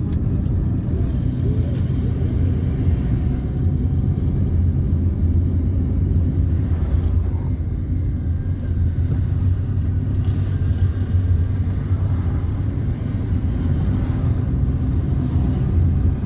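A car driving along a road, with a steady low rumble of engine and road noise.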